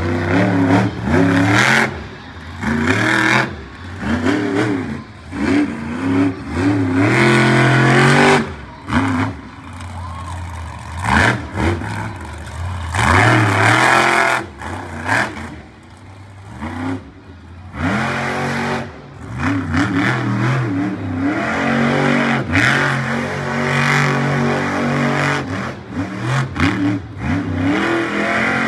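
Monster truck's big-block V8 revving hard in repeated bursts, its pitch climbing and falling as the throttle is worked, with brief drops between bursts.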